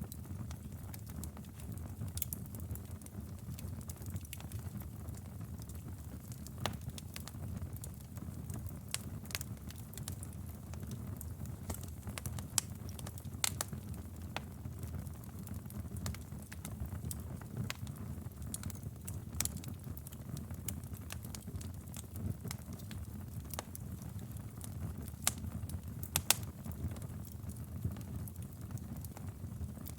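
Wood fire burning in a fireplace: irregular crackles and snaps of the burning logs over a steady low rumble of the flames, with a few louder pops, the sharpest about seven-eighths of the way through.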